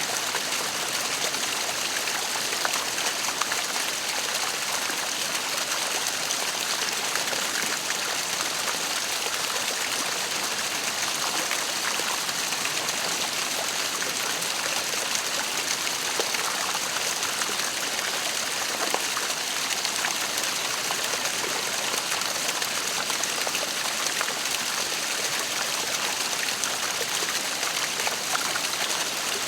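Waterfall: water falling and splashing in a steady hiss, with no change in level.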